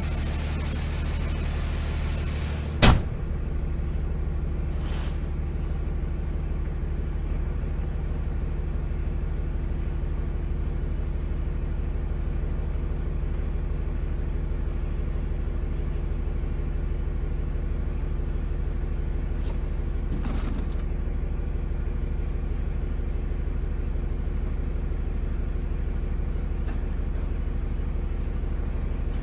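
Sideload garbage truck engine running steadily, heard from the cab, with one sharp bang about three seconds in and a short hiss around twenty seconds in.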